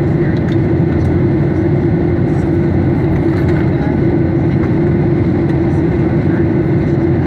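Steady in-flight drone of a Boeing 737 airliner: engine and airflow noise running evenly, with a constant hum over a low rumble.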